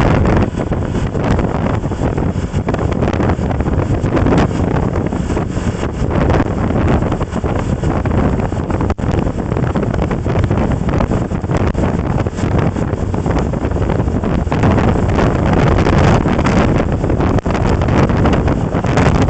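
Loud, steady wind buffeting the microphone during travel, with a dense rumble of movement noise underneath.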